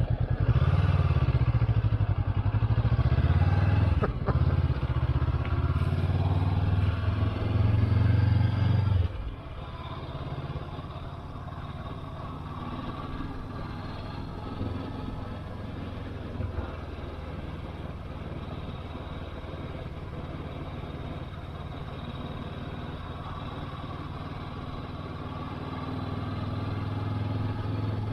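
A 500 cc Honda motorcycle engine running under load during a ride. It is loud for about the first nine seconds, then suddenly drops to a quieter, steady run, and builds up again near the end.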